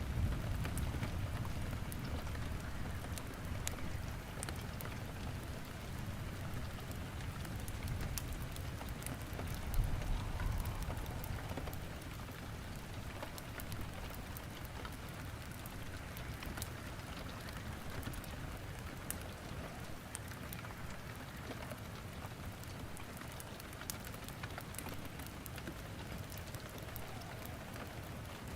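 Steady rain with a crackling wood fire in a fireplace: an even hiss of rain with scattered sharp crackles. A low rumble fades over the first few seconds and swells briefly again about ten seconds in.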